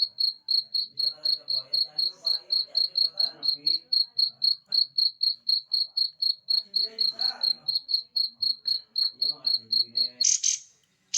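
A cricket-like insect chirping in a steady, even rhythm of about four to five high chirps a second, all at the same pitch. The chirping stops about ten seconds in and is followed by a couple of sharp, loud bird calls.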